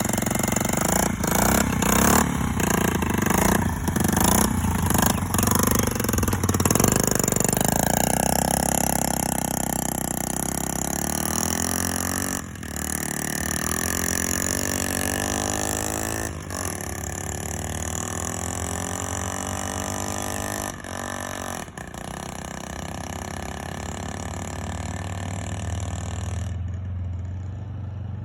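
Honda Z50's small 49cc four-stroke single-cylinder engine warming up just after a cold start on choke. It runs unevenly with brief breaks at first, then its pitch rises and falls several times as the revs change.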